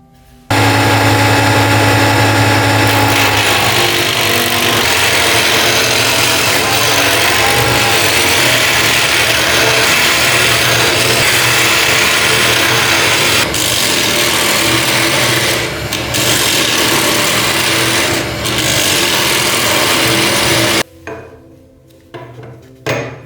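An electric power tool switches on about half a second in and runs steadily for about twenty seconds, abrading a workpiece, then stops abruptly. One or two short knocks come near the end.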